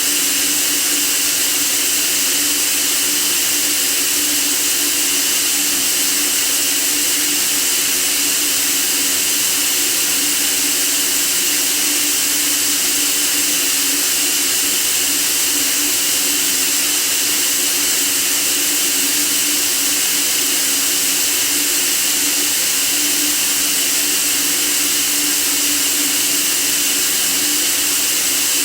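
Steady white noise: an even, unchanging hiss, strongest in the high range, with a faint low hum beneath it.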